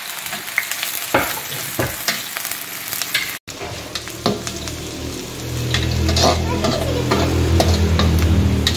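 Sliced shallots frying in hot oil in a wok, sizzling steadily, with scrapes and clinks of a metal spatula and then a metal skimmer stirring them. A low steady hum comes in about halfway through.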